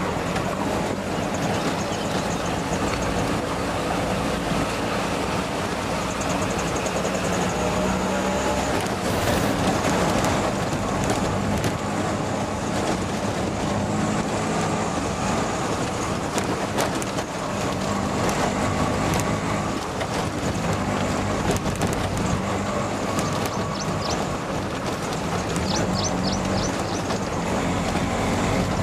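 Steady running noise of a moving vehicle, with a low hum and scattered clicks and rattles.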